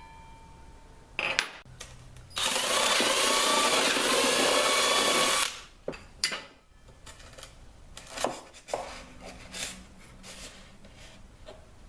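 Power drill running for about three seconds, boring a hole for a perch dowel in a dried queen palm flower pod, its motor pitch wavering under load. Handling clicks and knocks come before and after it.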